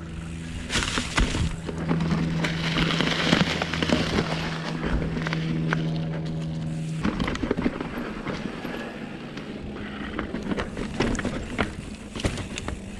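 Mountain bike rattling and clattering down a rocky trail, with many small knocks from the tyres and drivetrain and a steady buzz from about two to seven seconds in, over wind noise on the action camera.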